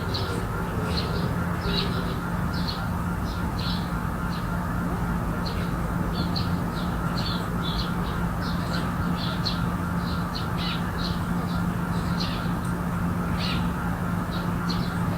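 Birds giving many short, harsh calls, two or three a second, over a steady low hum.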